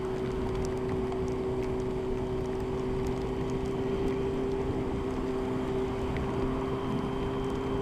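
Motorcycle engine running at a steady motorway cruise, a constant drone at unchanging pitch, over a rush of wind and wet road noise.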